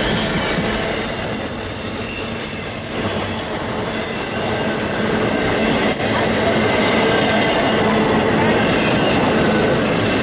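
Train rolling past with steady rumble and wheel noise. The wheels squeal in a high pitch for the first half and again near the end.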